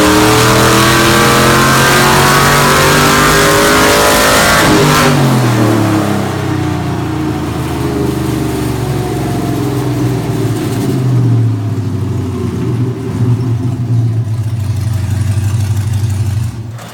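Rebuilt all-aluminum Gen 4 5.3-liter Chevy LS V8 running on an engine dyno, held at high revs for the first few seconds, then the revs drop and it settles to a lower steady run. It shuts off just before the end.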